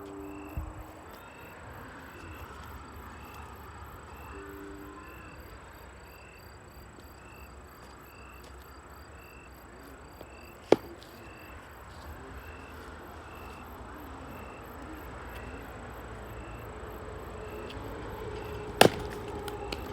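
Two sharp axe strikes splitting firewood, about eight seconds apart, the second near the end. Between them are only a faint, evenly repeated chirping and a quiet outdoor background.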